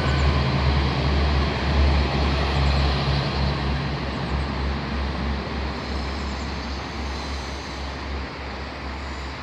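Diesel multiple-unit passenger train running over a stone arch railway bridge: a steady low engine drone with rumbling wheel and rail noise, fading slowly as the train moves away.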